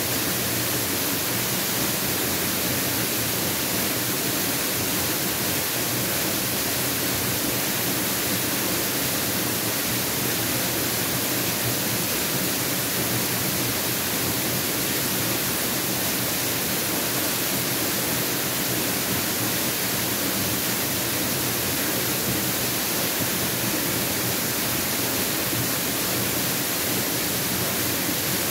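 Mountain waterfall: a steady, even rush of falling water with no breaks.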